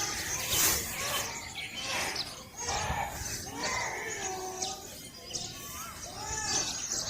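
Birds chirping and calling: many short high chirps over lower, arching call notes.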